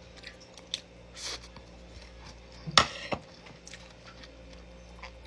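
Quiet eating sounds from a meal eaten by hand: a few light clicks and knocks, with a louder pair about three seconds in, over a steady low hum.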